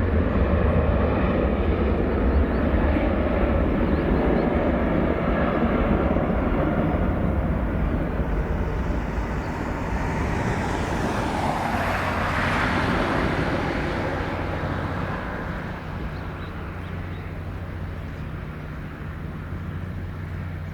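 Jet airliner's engines passing close: a heavy low rumble with a rushing hiss that swells to a peak about twelve seconds in, then fades as the aircraft moves away.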